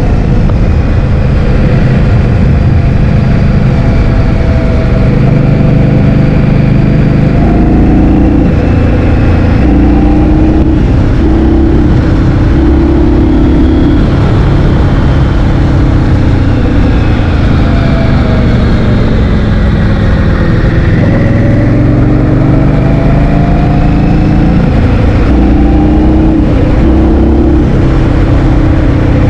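Loud wind buffeting on the microphone while riding, over an engine whose pitch rises and falls several times as the speed changes.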